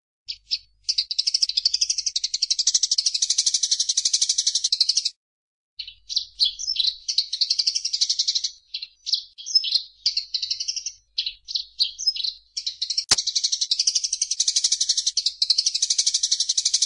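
A small songbird singing long runs of very fast, high trills. In the middle stretch the trills give way to short chirps and rattles. A single sharp click comes about 13 seconds in.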